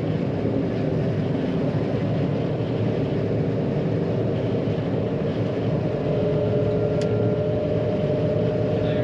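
John Deere 9500 combine's diesel engine and threshing machinery running steadily while harvesting soybeans. Its hum shifts in pitch about six seconds in, and there is one short click about seven seconds in.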